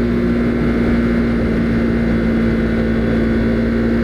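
Husqvarna Svartpilen 401's single-cylinder engine running at a steady pitch while cruising, with wind rumble underneath.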